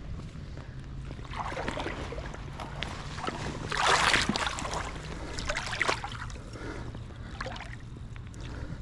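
Water splashing and sloshing around a small boat or kayak in irregular swishes, the loudest about four seconds in, over a steady low hum.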